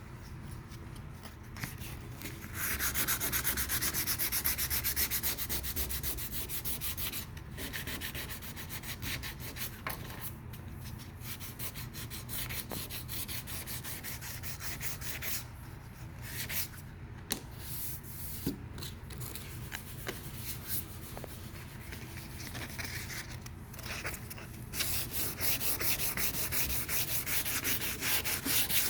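Sandpaper rubbing over high-build epoxy primer on a car body panel in steady back-and-forth strokes, knocking the orange peel off the primer. It pauses briefly several times, and is louder near the start and again toward the end.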